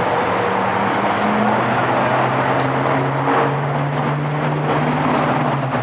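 A motor vehicle running steadily at speed: a constant engine hum with slight shifts in pitch, under a continuous rush of road and wind noise.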